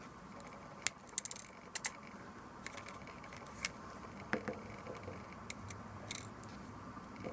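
Irregular sharp clicks and short scraping ticks as a compact digital camera and small tools are handled during repair, with a quick cluster about a second in and another near the end.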